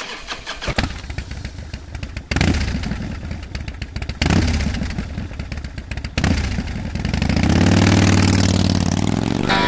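Motorcycle engines running, with clatter, in several short segments that cut abruptly from one to the next; about seven seconds in, an engine revs up, its pitch rising steadily.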